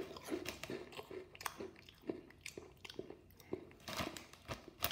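Mouth crunching and chewing Pom-Bear potato snacks: a run of irregular crisp crackles.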